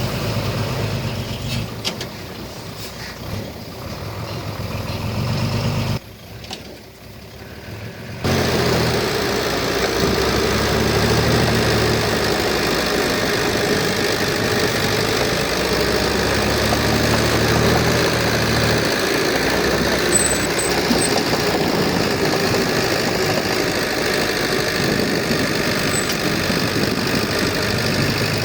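Heavy diesel engine of earthmoving equipment running steadily, its low rumble swelling and easing. The sound drops away sharply for about two seconds some six seconds in, then comes back just as suddenly.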